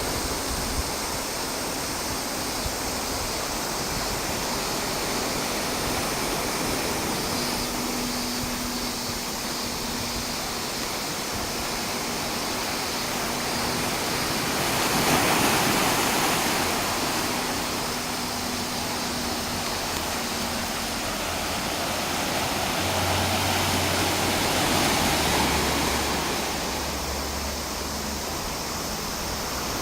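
Surf breaking on a beach: a steady rush of waves that swells louder twice, about halfway through and again a few seconds before the end.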